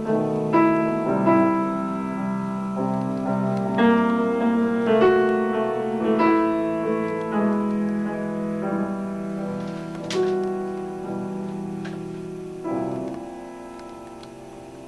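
Piano played live, a slow melody over chords with notes struck one after another; a last chord is struck near the end and left to ring and fade.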